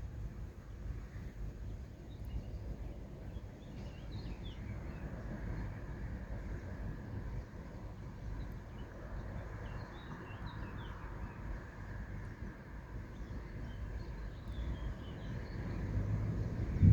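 Small birds chirping over a steady low rumble of outdoor background noise. A single loud low thump comes right at the end.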